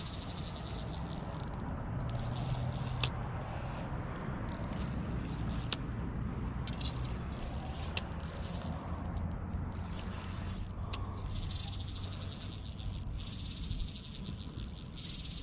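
Ultralight spinning reel clicking rapidly during a fight with a hooked carp, as line is cranked in or pulled off against the drag. The clicking comes in spells at first, then runs steadily for the last few seconds, over a low rumble of handling on the microphone.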